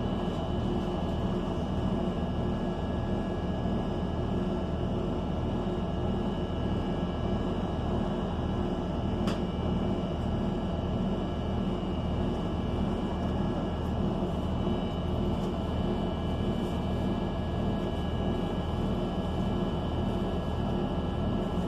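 Cabin sound of a 2019 ENC Axess transit bus running, with its Cummins Westport L9N natural-gas engine and Voith transmission giving a steady low rumble and a few steady high whining tones. A single sharp click sounds about nine seconds in.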